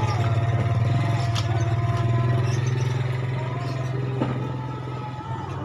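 A motor running steadily with a fast even pulse, easing off a little near the end.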